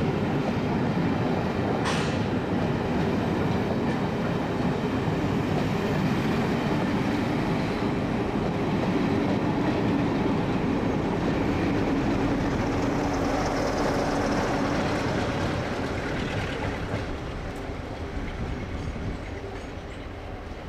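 Passenger coaches of a departing train running past on the rails in a steady rumble, with a brief sharp high sound about two seconds in. The noise fades over the last few seconds as the end of the train draws away.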